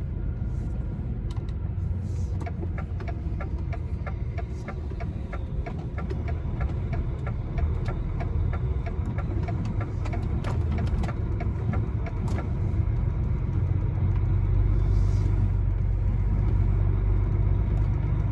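Lorry's diesel engine running with a steady low rumble heard from inside the cab, growing somewhat louder in the second half. A light, evenly spaced ticking, about three ticks a second, runs over it for several seconds in the first half.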